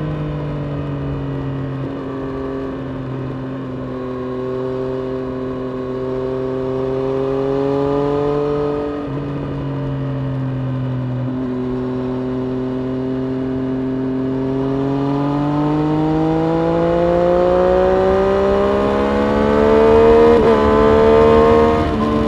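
Triumph Street Triple RS's 765 cc inline three-cylinder engine running on track from the rider's seat. It holds a fairly steady pitch through the first half with a short break about nine seconds in. It then climbs in pitch under acceleration, with brief breaks near the end as it shifts up.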